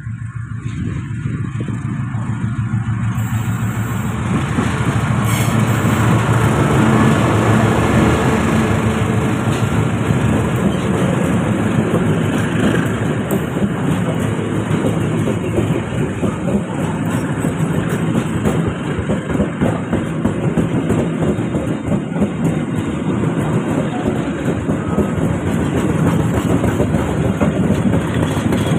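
A train passing close by, its wheels clattering over the rail joints; the sound builds over the first few seconds and then stays loud.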